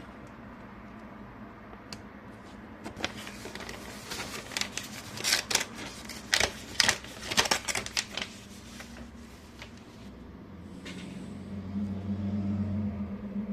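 Paper handling: sharp crackles and rustles of a mailed envelope being opened and its contents slid out, densest in the middle. A low steady hum comes in near the end.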